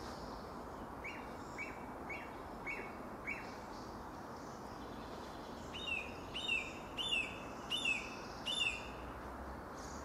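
A songbird singing: a run of five short notes falling in pitch, about two a second, then five longer, louder falling phrases about a second and a half apart, over a steady faint background hum.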